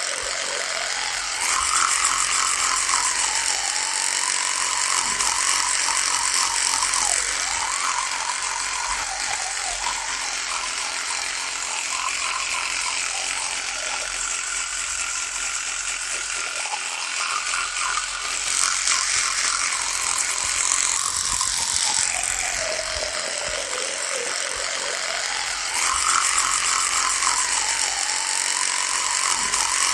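Electric toothbrush running with a continuous buzzing hum, its pitch sweeping down and back up and its loudness shifting every few seconds as the head moves over the teeth.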